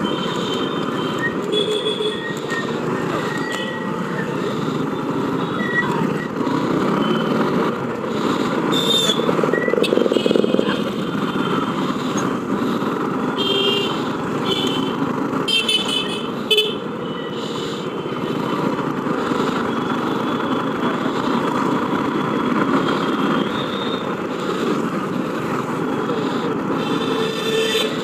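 Street traffic heard from a moving motorcycle: steady engine and road noise, with short vehicle-horn toots now and then, several in quick succession around the middle. One sharp knock a little past halfway.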